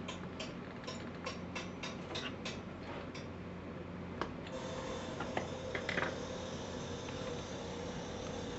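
Bench drill press driven by a treadmill motor. A steady low hum runs throughout; first comes a run of clicks, about three a second, then about four and a half seconds in a steady motor tone starts and keeps running, with a few knocks.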